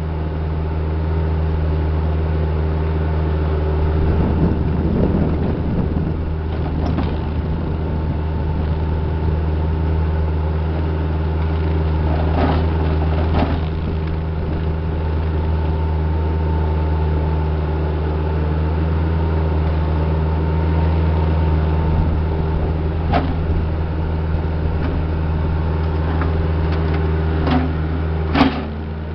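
Diesel engine of a working loader running steadily with a deep drone, with a few sharp clanks and knocks from the machine at work.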